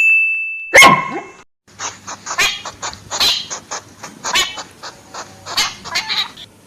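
Animal calls: one loud sharp cry about a second in, then a run of short pitched calls coming in quick clusters.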